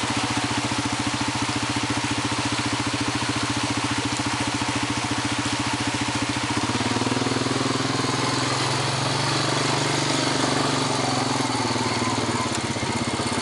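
Four-wheeler (ATV) engine running at low riding speed. Its note rises about halfway through, holds for a few seconds, then eases back down near the end.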